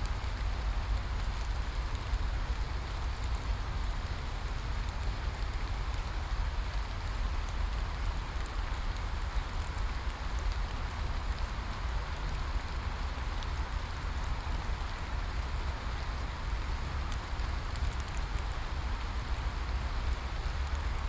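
Steady rain falling, an even hiss of drops with a low rumble underneath and faint scattered ticks of individual drops.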